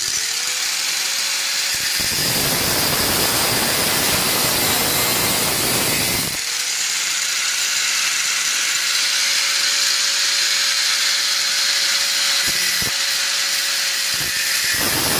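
A power tool cutting through exhaust pipe: the motor spins up to a steady whine, with a harsher, louder stretch of cutting noise from about two to six seconds in and a high hiss after it, dropping out briefly twice near the end.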